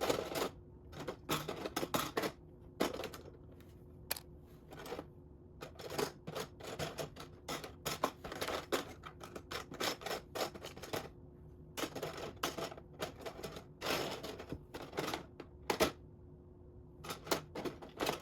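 Loose plastic Lego pieces clicking and rattling against each other as they are sifted through by hand in search of a missing part, in quick clusters of clicks with short pauses.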